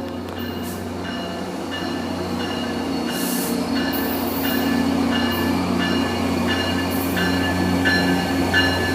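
Metrolink F59PH diesel locomotive 861 running as train 606 pulls into the station, its engine a steady low drone that slowly grows louder. A short high ringing stroke repeats about every 0.7 seconds, typical of the locomotive's bell.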